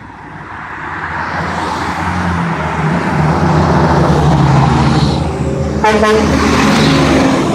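A motor vehicle driving past on the road, its engine and tyre noise growing louder over the first few seconds and then staying loud.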